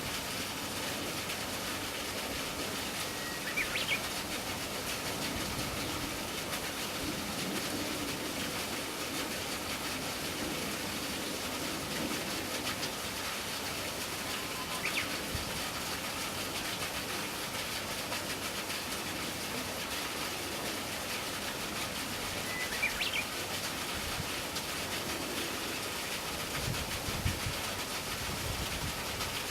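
Steady outdoor hiss with three short, high bird calls spread far apart, and some low rumbles near the end.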